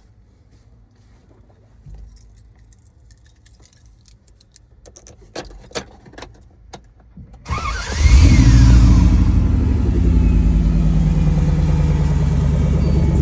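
A few clicks, then a little past halfway a 5.3-litre Gen IV LC9 V8 cranks, fires, flares up in revs and settles into a steady idle.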